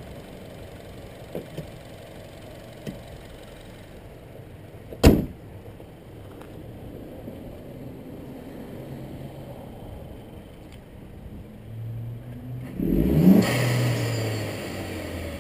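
2012 Chevrolet Cruze 1.4-litre turbo four-cylinder with a K&N Typhoon intake idling; the hood is slammed shut about five seconds in with one loud bang. Near the end the engine is revved, rising in pitch and getting louder.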